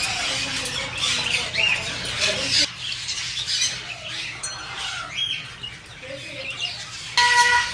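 Captive parrots squawking and calling: many short, harsh calls and rising shrieks overlapping one another.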